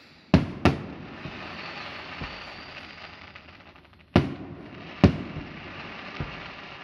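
Aerial fireworks bursting: two loud bangs a third of a second apart just after the start, two more about four and five seconds in, and a few softer thuds. A steady crackling hiss fills the gaps between them.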